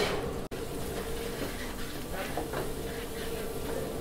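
Diced onion, peas and carrots sizzling in oil in a frying pan, with a few light spatula stirs, over a steady hum. The sound drops out for an instant about half a second in.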